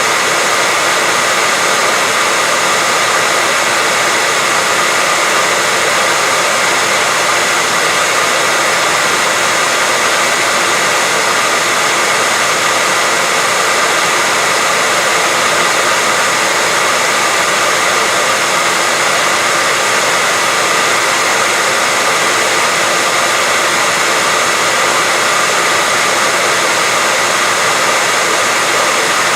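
Continuous white noise, a steady unchanging hiss weighted toward the higher range, with faint steady tones running through it.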